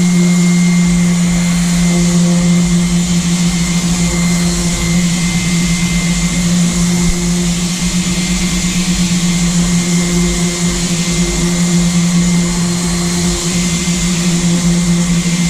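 Electric power sander running steadily with a constant motor hum and gritty hiss, sanding paint off an aluminium boat hull.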